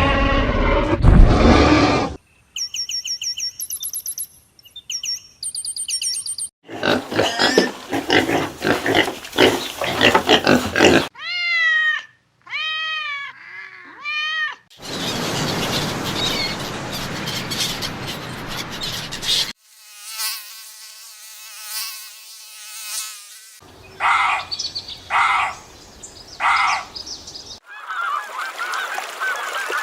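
A string of different animal calls, about eight short clips each a few seconds long, cut abruptly one into the next; some are high repeated chirps and some are rising-and-falling calls.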